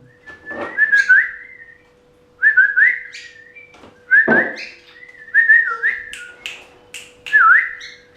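Whistling: short rising whistle notes near the same pitch, two or three at a time, repeated every second or so, with a few sharp clicks among them and a faint steady hum underneath.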